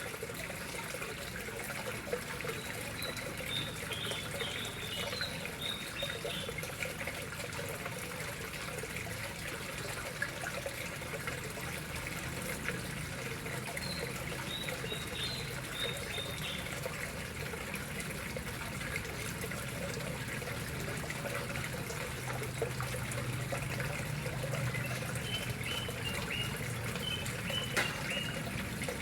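Water trickling and splashing steadily into a koi pond, with short bursts of high bird chirps a few times over it.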